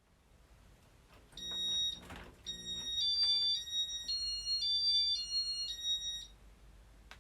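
A run of high electronic beep tones stepping between a few pitches like a short tune, with a brief low buzz as it begins and a click near the end: typical of the Casablanca Inteli-Touch control system answering a command.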